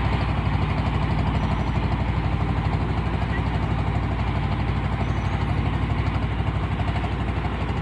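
Small ferry's engine running steadily, a low, even throb with a fast regular pulse.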